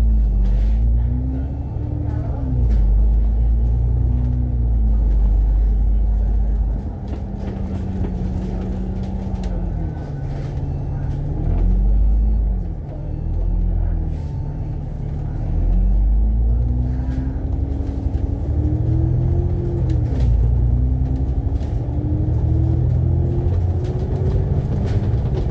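Alexander Dennis Enviro500 MMC double-decker bus heard from inside while on the move: a deep engine rumble with a drivetrain whine that rises and falls in pitch as the bus slows and picks up speed, dipping low around the middle and climbing steadily as it accelerates near the end.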